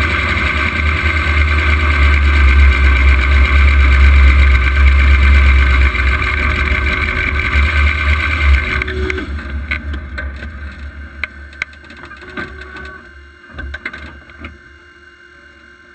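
Drag-race Camaro's engine running loudly, heard from inside the cockpit, then cut off about nine seconds in. After that only scattered faint clicks and knocks are left.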